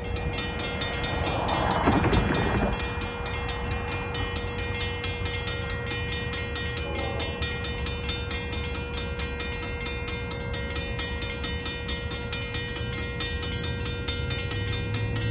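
A BNSF track geometry train led by a diesel locomotive passes a grade crossing, with a steady low rumble and a louder surge of noise about two seconds in. Steady ringing tones and evenly repeated clicks run throughout, as from crossing warning bells.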